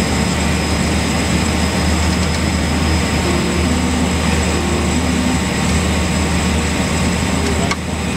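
Cabin noise of a Cessna 208 Grand Caravan's single PT6A turboprop running steadily: a low propeller drone under a high, steady turbine whine and a dense rush of air. It eases slightly near the end.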